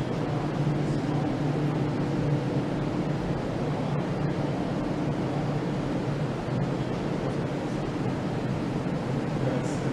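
Steady machinery hum and rumble of a factory floor, with a low droning tone and an even wash of noise.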